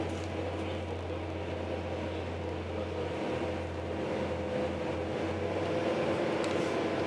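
Steady electrical hum and rumble inside an electric commuter train carriage, with a few faint steady whining tones over the running noise.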